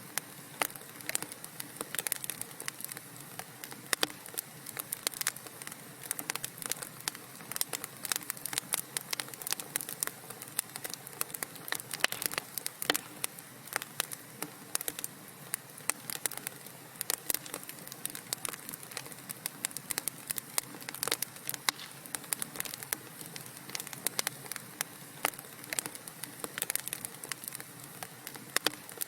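Burning wood crackling in a fireplace: many irregular sharp pops and snaps over a steady soft hiss.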